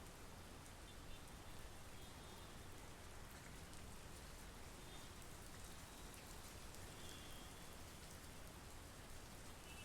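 Steady monsoon rain: a faint, even hiss of rainfall with pattering drops. A few faint, short, high chirps sound now and then.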